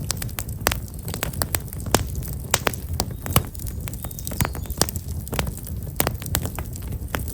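Black locust firewood burning in a bonfire, crackling with frequent irregular sharp pops and snaps over a steady low rumble.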